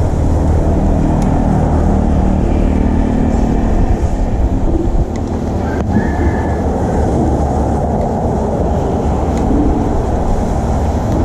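Steady rumble of street traffic, with a faint short tone about six seconds in.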